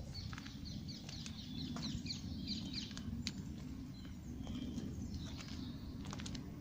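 Small birds chirping: quick high chirps, busiest in the first few seconds and sparser after. A steady low rumble and a few sharp clicks run underneath.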